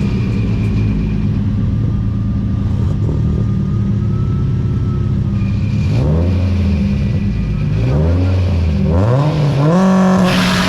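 Car engine idling steadily, then revved three times: two short blips, then a longer rev held high near the end.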